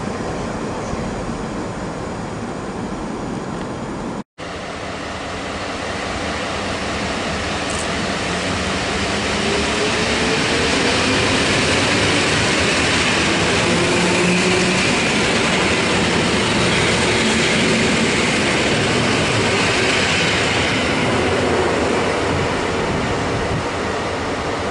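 Electric multiple unit pulling out, its traction motors giving a whine that rises in pitch as it gathers speed, over the rumble of the train. It follows a brief break about four seconds in, before which other train noise is heard.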